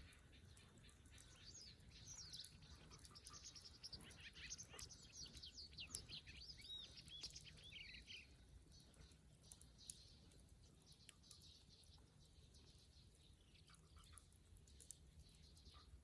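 Faint birdsong: rapid chirping calls gliding up and down for several seconds, dying away a little past the middle. Under it are faint scattered crackles from a wood fire.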